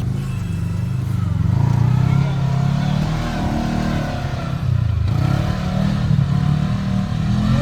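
Side-by-side UTV engine running under changing throttle, revving up and easing off several times.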